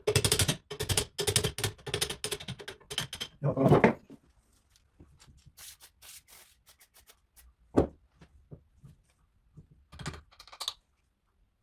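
Rapid clattering of the antique Singer sewing machine's mechanism, just freed from corrosion, as it is worked by hand for about four seconds. A few scattered clicks and knocks follow.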